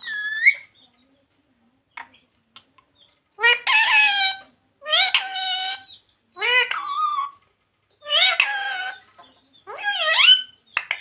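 Pet parrot calling: a series of about six loud, harsh calls, each under a second long and bending up then down in pitch, about one every second and a half.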